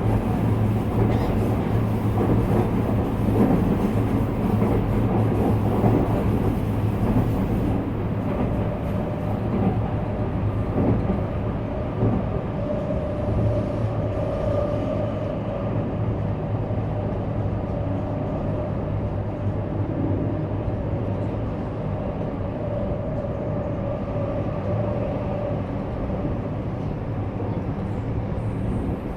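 JR West 321 series electric train running between stations, heard from inside the car: wheels on the rails and motor hum, with a steady whine through the middle.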